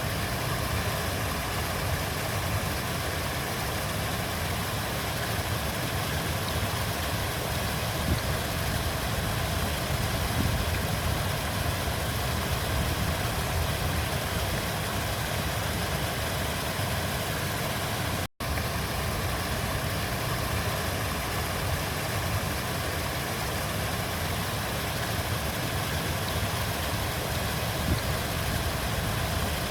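River water flowing steadily, a continuous even rushing. It cuts out for an instant about 18 seconds in.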